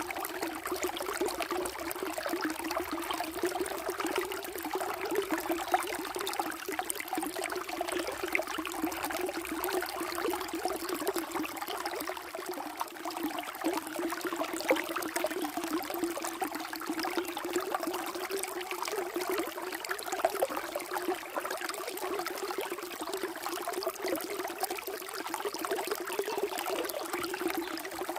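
Water flowing steadily, a continuous trickling and babbling stream.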